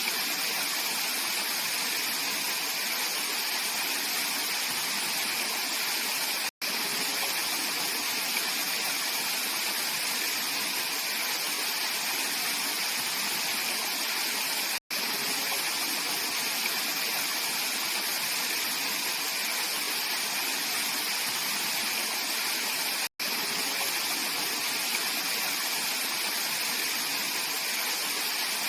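Mountain stream water rushing steadily over rocks, a bright, even hiss. The sound drops out to silence for a split second three times, about eight seconds apart.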